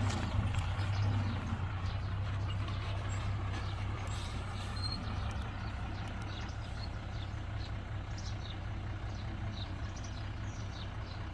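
Heavy construction machine's diesel engine running steadily with a deep hum, a little louder in the first second and then easing slightly.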